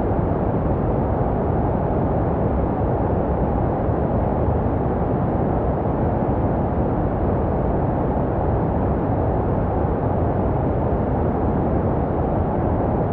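Steady baby-sleep white noise, deep and muffled, with most of its energy low down and little hiss on top, unchanging throughout. It is made to sound like what a baby hears inside the womb.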